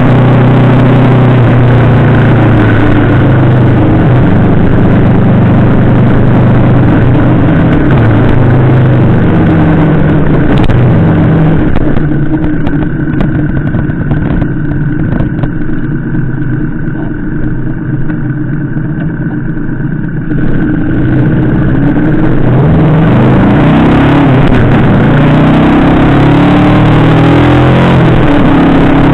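Yamaha VMAX 1700's V4 engine running under way, heard from a camera mounted on the motorcycle with wind rush. Its pitch steps up and down early on, it drops back and goes quieter for several seconds in the middle, then climbs in pitch again as the bike accelerates.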